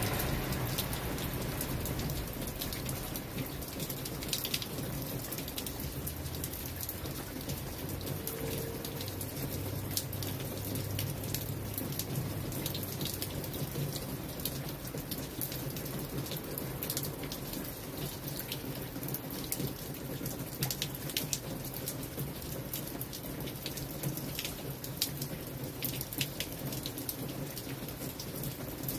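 Steady rain falling on wet brick paving: an even hiss of rainfall scattered with many sharp individual drop hits.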